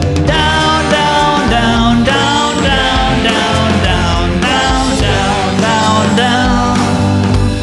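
Band playing a funky soul-rock song: a bass-and-drum groove with a wavering melodic lead line over it.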